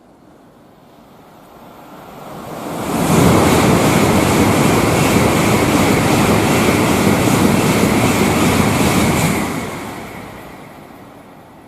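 Tokaido Shinkansen train passing through the station at high speed without stopping. Its rushing noise swells over about two seconds, stays loud for about six seconds, then fades away.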